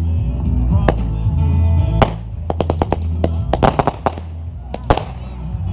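Fireworks going off over loud bass-heavy music: single sharp bangs about a second in, about two seconds in and near the end, with a rapid string of crackling reports in the middle.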